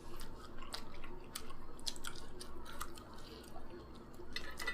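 Close-up chewing of soft naan flatbread, with many small wet mouth clicks and smacks.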